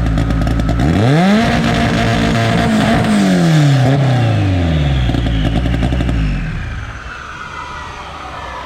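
Car engine revved hard: the pitch climbs sharply about a second in, holds high for a couple of seconds with rapid clicks, then falls away and fades.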